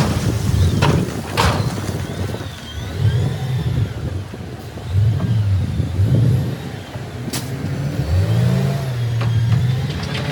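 Heavy earthmoving machine's diesel engine revving up and down, with a few sharp knocks and some faint squealing.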